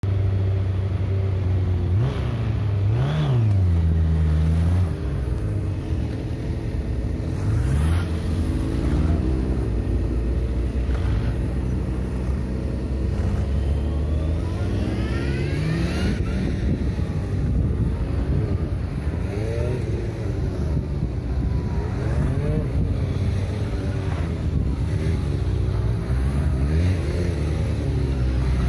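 Suzuki Bandit 1200's inline-four engine revving up and dropping back again and again as the motorcycle accelerates and brakes through tight turns around cones.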